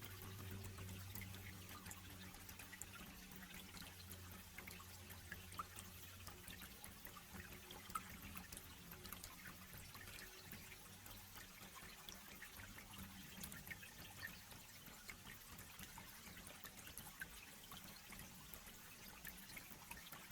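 Small shallow stream trickling over stones, a faint steady babble with many tiny drips and splashes.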